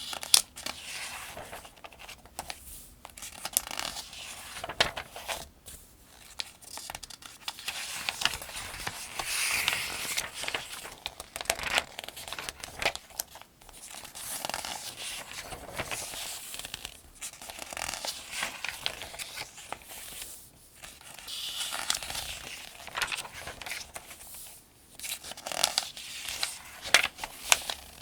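Paper pages of the Farmers' Almanac being turned one after another at a steady pace, each turn a rustling swish with crisp crinkles and snaps of the page.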